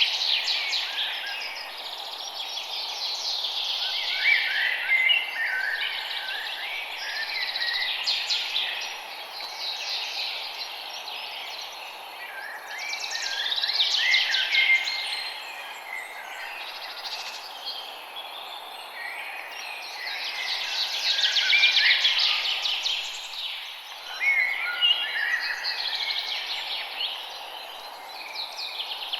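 Forest birds singing in a dense dawn chorus: many rapid chirps and trills overlapping, swelling and easing every few seconds, over a steady background hiss.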